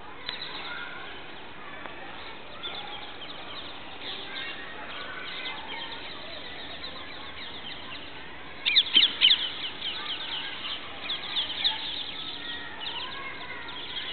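A flock of parrots calling with rapid, high, repeated chirps, with a loud burst of chirping about nine seconds in and another a couple of seconds later.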